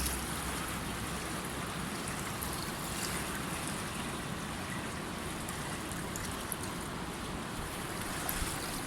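Steady rush of a river running high after a typhoon, its water swollen by dam discharge.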